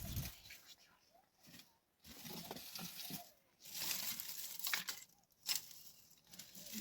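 Rustling and crackling in two stretches of about a second each, with a few light clicks.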